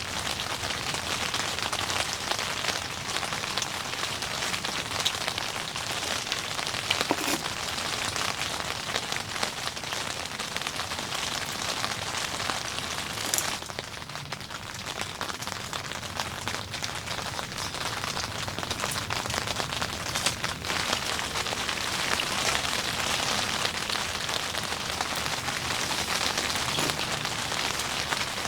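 Rain falling steadily, with many separate drops striking close by. It eases briefly about halfway through.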